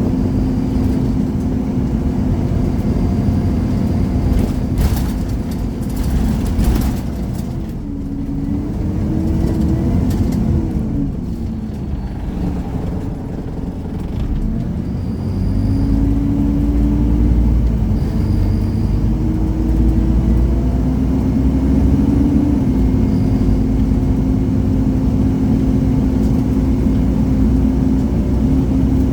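Scania Omnicity single-deck bus heard from on board, its engine and transmission running with a steady whine. About a third of the way in the whine dips and wavers as the bus slows, then from about halfway the engine pulls harder with a deeper rumble and a rising whine as the bus accelerates.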